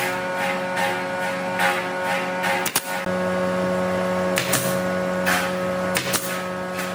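A woodworking machine's electric motor running with a steady hum, with several sharp knocks along the way.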